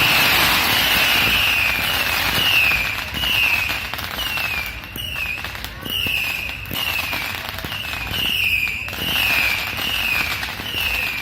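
Fireworks going off: dense crackling in the first couple of seconds, then separate loud bangs a few seconds apart. A short high-pitched tone falling in pitch repeats about twice a second under them.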